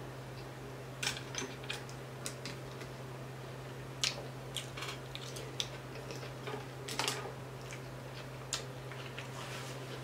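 Close-miked eating sounds: a person chewing crispy fried tilapia, with scattered short crackles, clicks and mouth smacks every second or so over a steady low hum.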